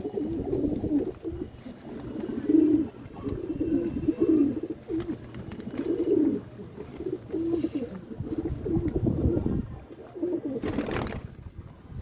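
Domestic pigeons cooing over and over, several voices overlapping. A brief rush of noise cuts in about eleven seconds in.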